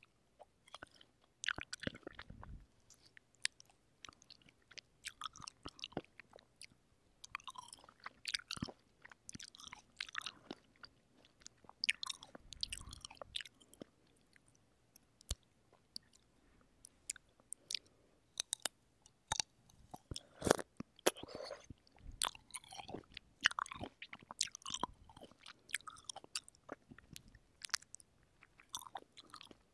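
Fresh cherries bitten and chewed close to a microphone: juicy, wet chewing with irregular sharp mouth clicks and smacks, some louder bites about two-thirds of the way through.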